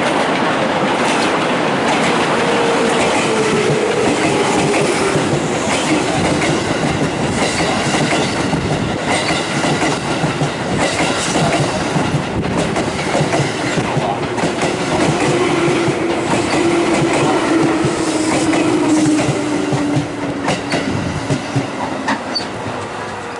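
Takasaki Line electric commuter train running in along the platform: wheels clicking over the rail joints over a steady rumble, with a whine that falls slowly in pitch as the train slows. Near the end it quietens, with a few sharp clicks.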